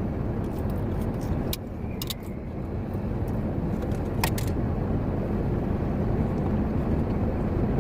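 Steady low rumble of an idling truck heard from inside the cab, with a few light clicks and rustles about a second and a half in, around two seconds and near four seconds.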